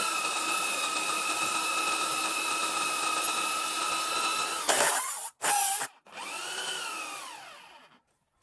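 A small electric power tool's motor running at a steady whine, then stopping. It is triggered briefly twice, then given one more short run that winds down and fades out.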